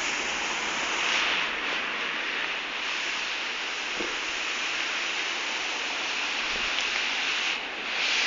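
Rain falling steadily, an even hiss with no thunder heard.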